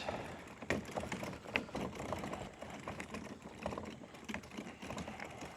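Irregular light clicks and rattles from a fishing kayak on its landing-gear wheels as it is grabbed and wheeled along the ground.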